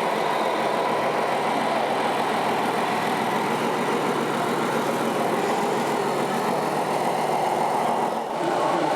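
Steady mechanical running noise with a brief dip about eight seconds in.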